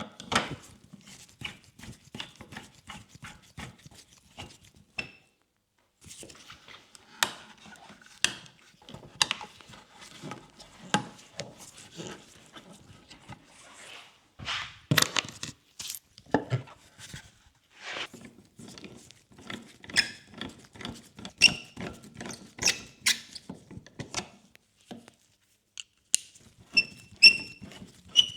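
Irregular clicks, taps and knocks of small parts and tools being handled in motorcycle headlight bulb work, with short high squeaks near the end.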